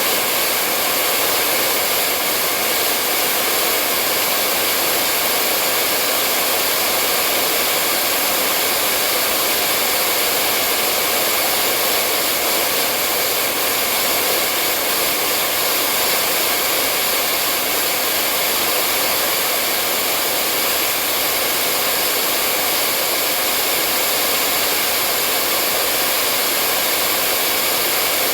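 Hair dryer running continuously at a steady speed: an even, unbroken blowing whoosh with a faint motor hum, used as white noise to lull a baby to sleep.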